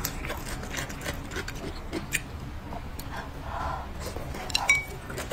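Close-miked eating sounds: a bite of food taken from chopsticks, then chewing with wet smacks and small irregular mouth clicks.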